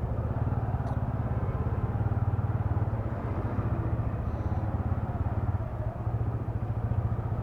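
TVS Ronin's single-cylinder engine running at low speed in stop-and-go traffic, a steady fast-pulsing beat, heard through a mic inside the rider's helmet.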